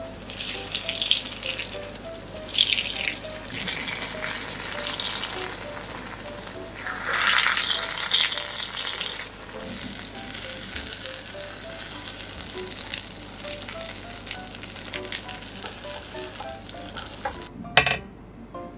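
Egg and enoki mushrooms frying in a nonstick wok: a steady sizzle that grows louder in a few spells. A single sharp knock comes near the end.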